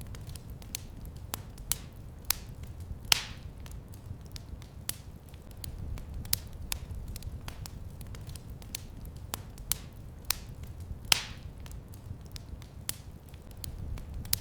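Wood fire crackling in a fireplace: irregular sharp snaps and pops over a low steady rumble of flame, with two louder pops, one about three seconds in and one near the end.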